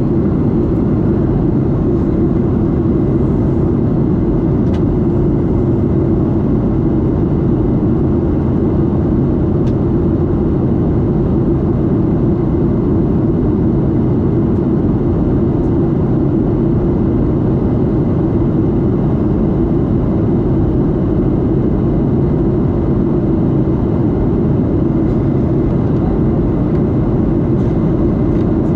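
Steady engine and airflow noise inside the cabin of a Boeing 737-8, heard from a seat near its CFM LEAP-1B turbofan. It is a loud, even, low-heavy noise that holds without change.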